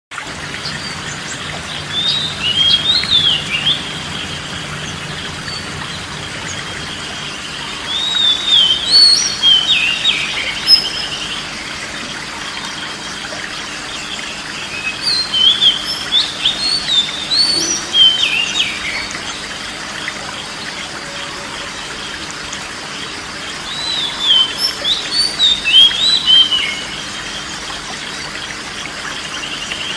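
Oriental magpie-robin singing in four bursts of quick, varied whistled phrases with pauses between them, over a steady background hiss.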